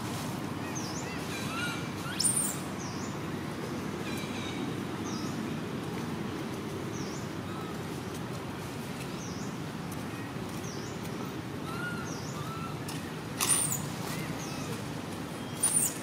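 Outdoor ambience with a steady low background noise and small, high bird chirps repeating about every second. A couple of short arched calls are heard, and there are brief rustling bursts about two seconds in, late on, and again near the end.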